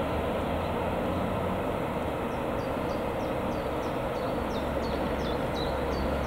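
Freight train of loaded car-carrier wagons rolling towards the listener with a steady rumble and a low hum under it. A run of short, high, falling chirps sounds over it in the second half.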